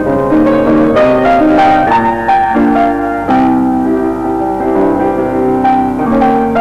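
Background music: a piano playing a melody with chords, notes changing about every half second.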